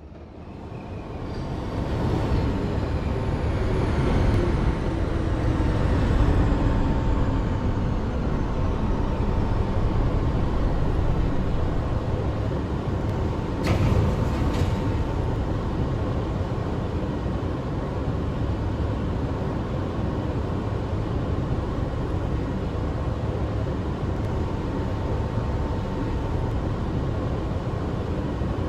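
New York City subway train on the IRT 3 line running, its rumble building up over the first two seconds and then holding loud and steady, with falling whines early on and a single sharp clank about a third of the way through.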